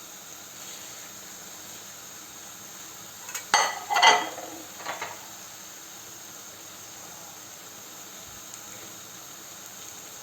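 Paella of rice, chicken and seafood in broth cooking in its pan, a steady sizzling hiss. A few sharp metallic clinks about three and a half to five seconds in.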